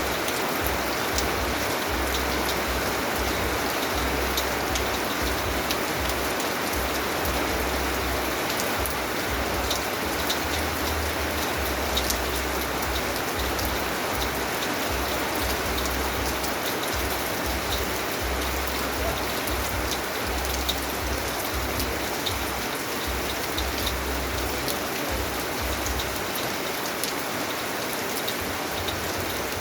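Steady rain falling, a dense even hiss speckled with the ticks of individual drops striking a surface, over a low rumble that comes and goes.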